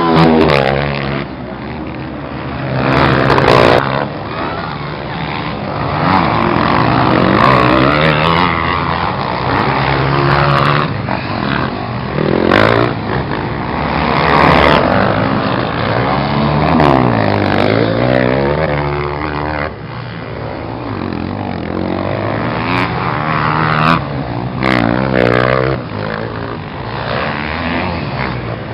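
Several motocross motorcycles revving hard and easing off, their engine pitch rising and falling over and over with the bikes overlapping one another.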